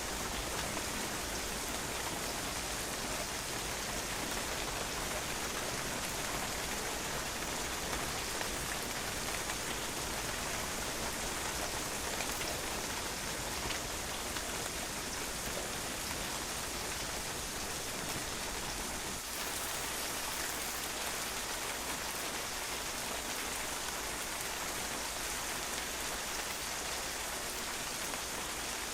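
Steady rain falling, its drops pattering on a patio surface in an even, dense hiss of many small splashes.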